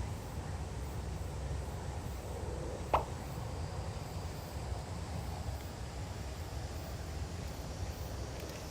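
Gusty wind buffeting the microphone, a steady low rumble, with one sharp click about three seconds in.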